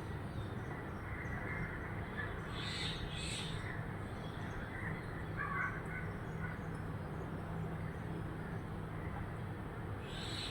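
Birds calling: a pair of short calls about three seconds in, a few fainter chirps, and another pair near the end, over a steady low hum.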